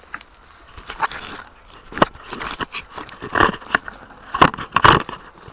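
Irregular clicks, knocks and rustling, growing busier and louder about two seconds in, with the sharpest knocks near the end.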